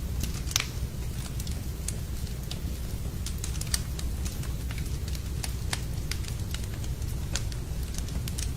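Wood fire in a fireplace crackling: irregular sharp pops and snaps over a steady low rumble, with a louder pop about half a second in.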